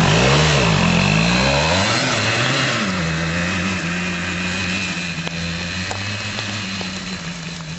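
Suzuki RG125 Gamma two-stroke single-cylinder engine of a homemade go-kart, revved up and down in a few quick blips over the first three seconds, then settling to a steady idle that slowly grows fainter.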